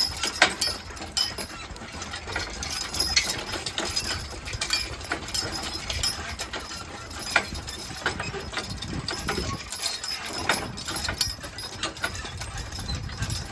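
Hooves of a team of draft horses clip-clopping at a walk, irregular sharp clicks over the low rumble of the vehicle they pull.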